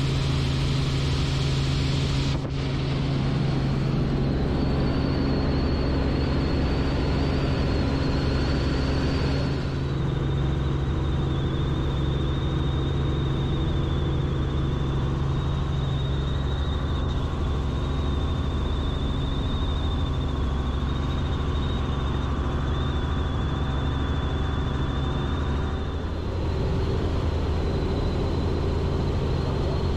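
Tour helicopter's turbine engine and rotor running steadily, heard from inside the cabin: a low drone with a thin, steady high whine over it. The sound shifts abruptly a few times.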